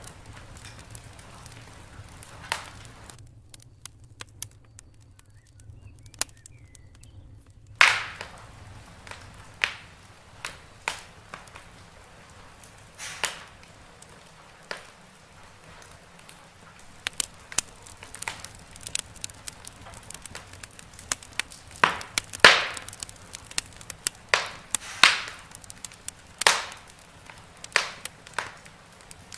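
Wood fire in a fireplace crackling, with irregular sharp pops over a soft steady hiss; the pops come thicker in the second half, with loud ones about 8 s in and around 22 s.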